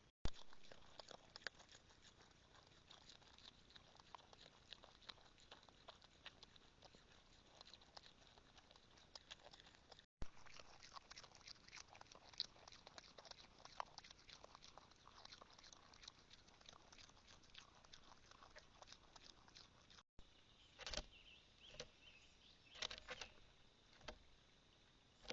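Faint, irregular clicks and taps of birds pecking at seed on a feeder platform, picked up close by the feeder's own microphone, with a few louder scuffling bursts near the end.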